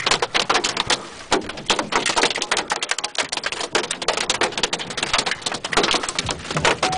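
Hailstones pelting down in a dense, irregular patter of hard ticks and knocks. A steady electronic tone starts right at the end.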